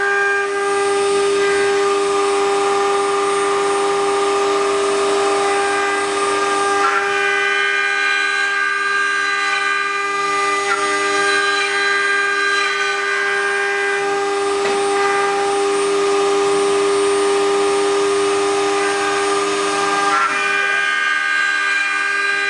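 Spindle motor of a 4-axis CNC wood router running with a steady, high-pitched whine that holds an even pitch throughout.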